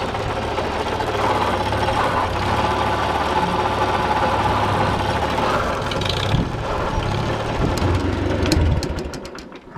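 Farmall Super A tractor's four-cylinder engine running steadily under the load of the homemade backhoe, then shut down about nine seconds in, with a run of sharp clicks as it dies away.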